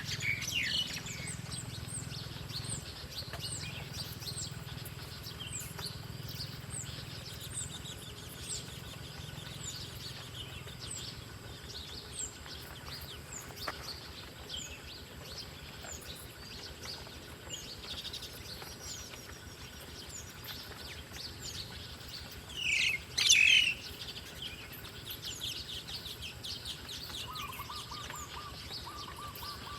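Wild birds calling in woodland: a steady series of short, high, falling chirps about once a second, with louder calls at the start and again about two-thirds of the way through, and a lower trill near the end.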